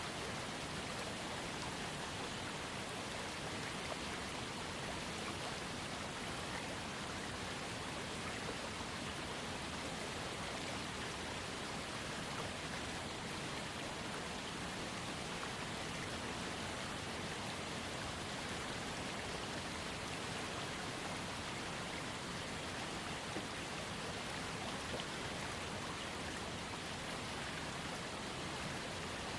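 Small waterfall splashing into a trickling creek: a steady, even rush of falling and running water.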